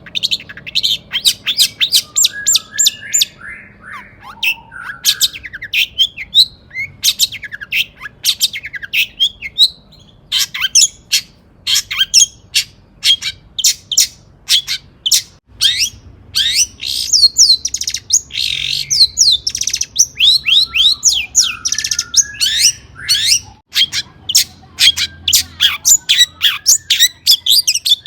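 Long-tailed shrike (cendet) singing a fast, continuous string of short, sharp high calls mixed with harsher notes and lower sliding phrases. The song breaks off for an instant twice, once midway and once near the end.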